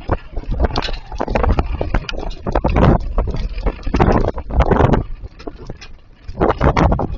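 Small hail and rain pelting down in a dense patter of ticks, swelling and easing in waves every second or so, with wind buffeting the microphone.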